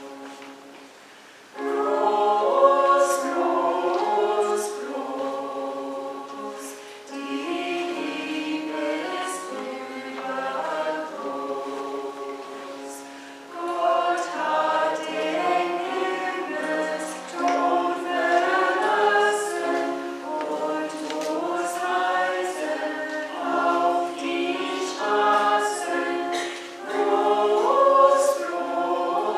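Church choir singing, the voices coming in about a second and a half in after a brief lull.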